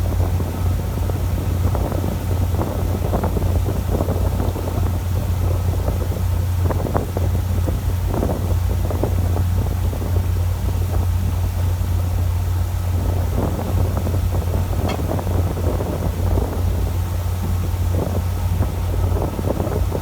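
Pole-and-line bonito fishing boat's engine running steadily with a low hum, under a continuous rush of wind on the microphone.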